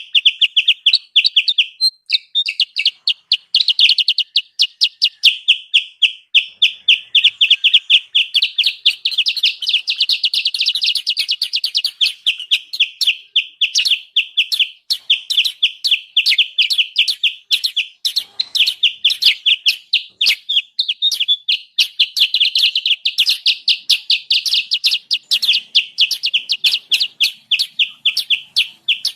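Kutilang sutra lure-call recording: a busy, unbroken string of short, high chirps, about five a second. It is played to draw wild kutilang sutra close enough to be caught on lime sticks.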